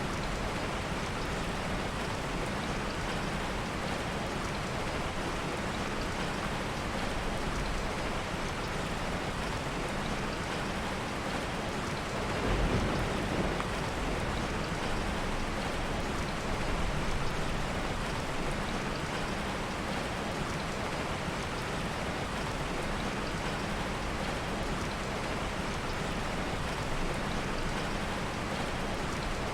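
Steady heavy rain, with a low rumble of soft thunder about twelve seconds in.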